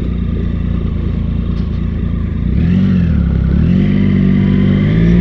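Triumph Sprint ST 1050's three-cylinder engine running under way, heard from on the bike. The note dips and picks up again about halfway through, then climbs steadily in pitch and gets louder as the bike accelerates.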